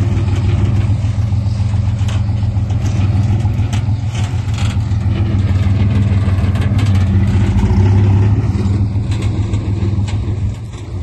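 Diesel engine of heavy earthmoving machinery running steadily, with a few light knocks over it. Its level swells a little after the middle and eases off near the end.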